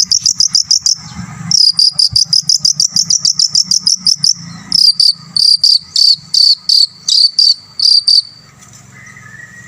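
Long-tailed shrike (cendet) singing a high-pitched, cricket-like run of rapid repeated notes, about seven a second, that breaks off briefly about a second in. Later the notes slow to about three a second and stop about eight seconds in; softer, lower chirps follow near the end.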